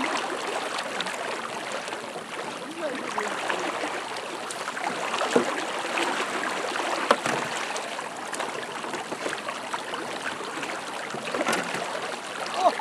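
Steady rush of fast-flowing floodwater on a swollen river, with three short sharp clicks or knocks over it.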